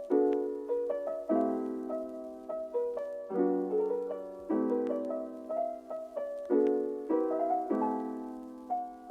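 Gentle solo piano background music, soft chords struck about every one to two seconds and left to ring.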